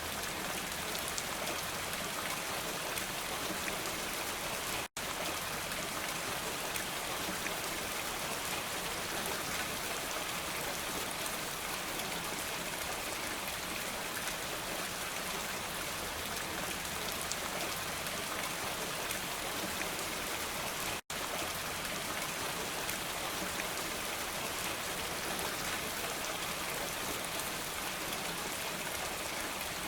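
Steady rain falling, an even hiss of drops, cut twice by a split-second dropout to silence.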